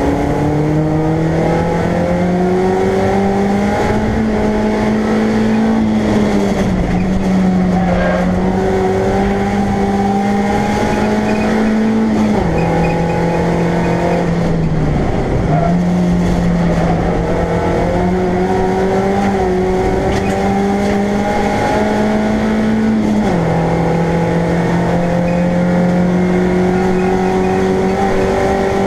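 BMW Compact race car's engine running hard at racing speed, heard from inside the stripped-out cabin. Its pitch climbs through each gear and drops at the gear changes, several times over.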